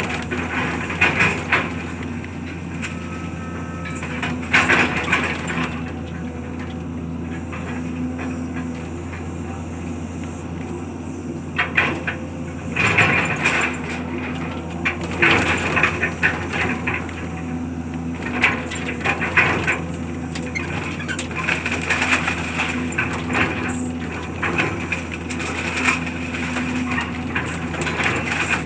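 Demolition debris, wood among it, being crushed and broken up, with repeated irregular cracks and crunches over the steady drone of a heavy machine's engine.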